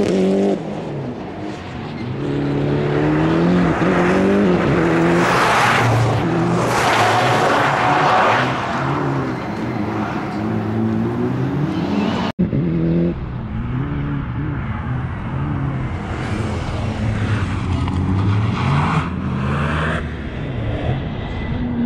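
Toyota GR Yaris's turbocharged 1.6-litre three-cylinder engine revving up and dropping back again and again as the car is driven hard through tight turns, with tyre noise in the corners. The sound breaks off abruptly about halfway and picks up again.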